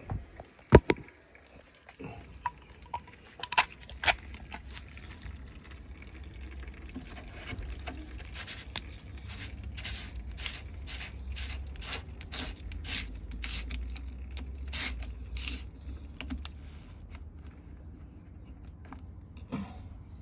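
Light clicks and scrapes of hand work on a water heater drain valve fitting: a sharp knock about a second in, then a run of clicks at about one to two a second that dies away past the middle.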